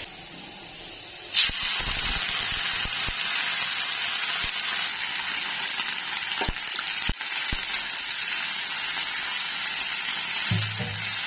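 Leafy greens sizzling as they fry in a wok, a steady hiss that starts suddenly about a second in. The spoon knocks against the pan three times a little past halfway.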